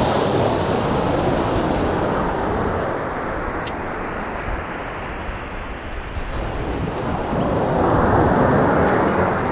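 Sea waves breaking and washing up the beach: the surf swells at the start, eases off midway and builds again near the end.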